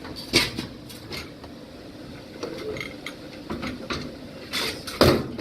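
Hands working on a washing machine's sheet-metal cabinet: a series of sharp metal clicks and knocks, the loudest just before the end.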